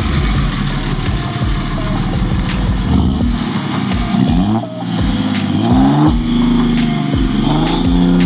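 Vehicle engine revving in repeated blips. Each rev rises in pitch and falls back, with the last one held higher near the end, over a steady low rumble.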